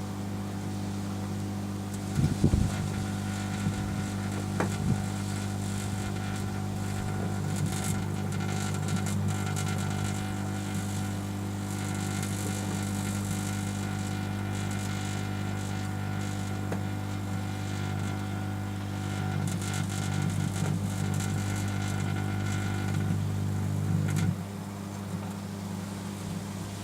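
Microwave oven running with a steady electrical hum, with sharp crackles and pops from arcing inside it, as a light bulb and glass debris spark. The crackling is loudest a couple of seconds in.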